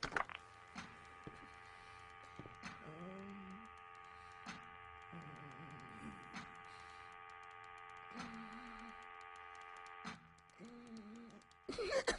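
Ambient machine sound design in a CG animated film: a steady, quiet mechanical hum of several held tones, with sharp clicks about every two seconds and low wavering sounds now and then. The hum stops shortly before the end, and a louder, noisier sound starts near the end.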